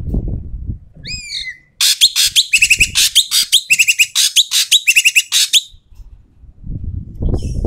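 Ekek keling bird calling: a couple of down-slurred whistles, then a loud, harsh, rasping chatter of fast repeated notes lasting about four seconds. Low rumbling comes at the start and near the end.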